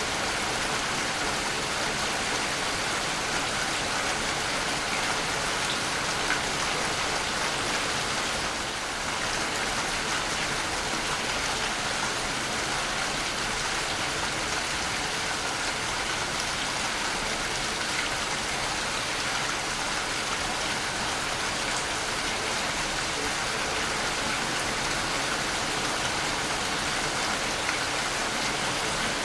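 Waterfall: falling water making a steady hiss.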